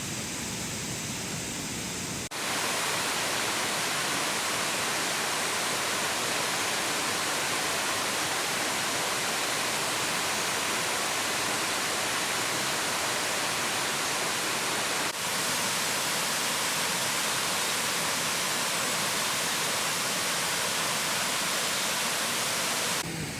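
Waterfall rushing: a steady, even wash of falling water. It steps up abruptly in loudness about two seconds in and breaks briefly about fifteen seconds in.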